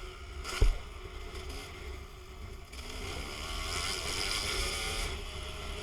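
Strong wind buffeting the microphone: a steady low rumble with a rushing hiss that swells in the middle, and one sharp thump about half a second in.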